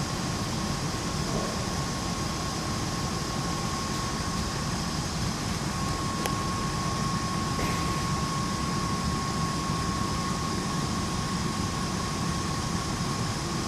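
Steady hum of a large hangar's background noise, with a thin, steady high whine running through it and no distinct events.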